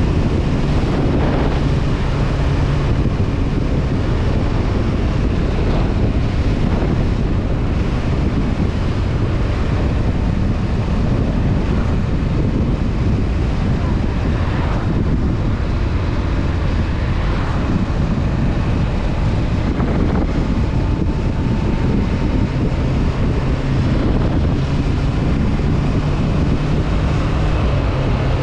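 Honda CB500F parallel-twin engine running at a steady cruise, mixed with heavy wind rushing over the camera microphone. The engine note is strongest at the start and comes up again near the end.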